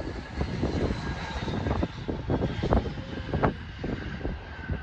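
Jet airliner engines running with a steady high whine over a low, gusty rumble, as the plane rolls out after landing.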